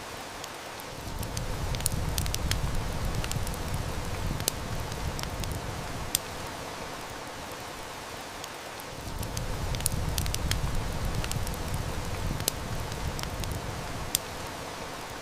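Heavy rain hissing steadily, with a wood fire crackling in scattered sharp snaps. A low rumble of distant thunder swells up twice, each lasting several seconds.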